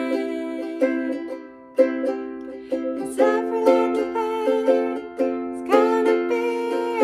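Ukulele strummed in a steady reggae-style rhythm, chords struck about every half second, with a brief fade about a second in before the strumming picks up again.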